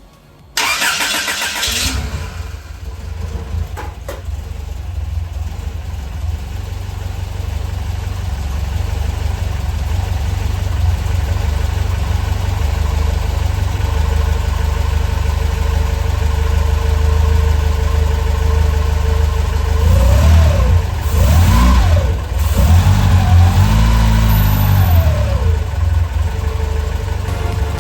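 Freshly rebuilt Mitsubishi 4G54 2.6-litre four-cylinder engine starting for the first time, catching about half a second in and settling into a steady idle. About twenty seconds in it is revved several times, the pitch rising and falling with each rev, before it drops back to idle.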